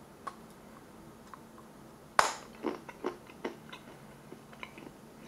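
Biting off a piece of MRE chocolate bar with a sharp snap about two seconds in, followed by a run of small, irregular crunchy chewing clicks.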